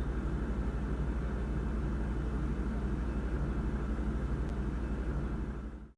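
Steady low background rumble with no speech, fading out to silence just before the end.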